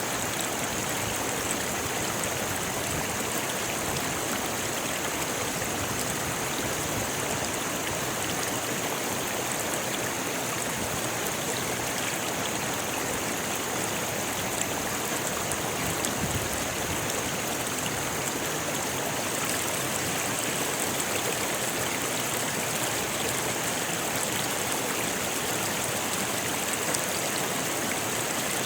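Rocky river flowing: a steady, even rush of water over stones.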